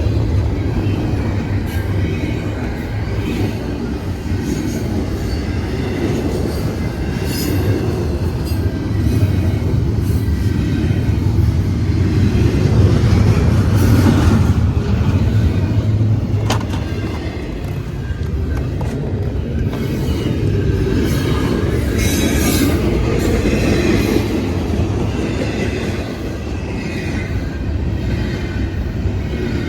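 Train braking: a steady low rumble with brake squeal rising and fading several times, and one sharp click about sixteen seconds in.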